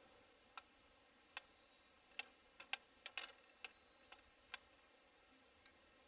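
Faint, sharp, irregular clicks and ticks, about a dozen over six seconds, most of them bunched together around the middle.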